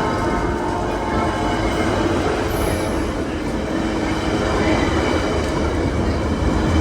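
Train rolling past: a steady rumble of wheels on rails, with a faint high squeal of wheels held over it.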